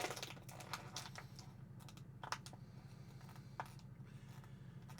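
A few scattered, irregular clicks of computer keyboard keys, faint over a steady low electrical hum.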